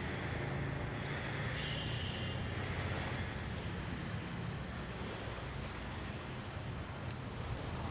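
Steady low hum of distant road traffic.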